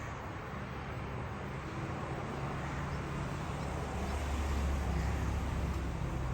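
Low engine rumble of a vehicle, growing louder over the second half and easing near the end, as it passes.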